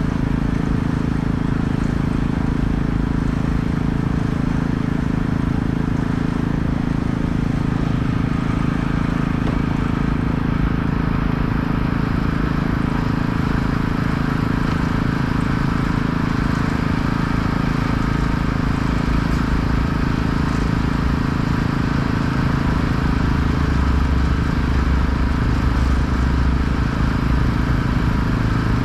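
An engine running steadily at constant speed: a low, unchanging drone with a hiss above it.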